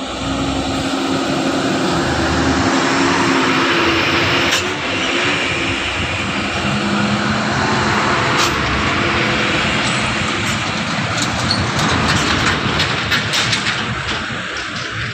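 Truck engine running hard under load, with a dense mechanical noise and scattered knocks and rattles, more of them near the end.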